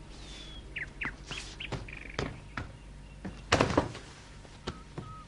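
Small songbirds chirping in short, quick falling notes, with scattered knocks and a louder clattering burst about three and a half seconds in.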